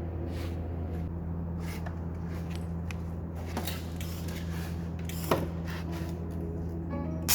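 Steady electrical hum of an idle stick-welding machine, with scattered light clicks and taps of handling; one sharper click about two-thirds of the way through.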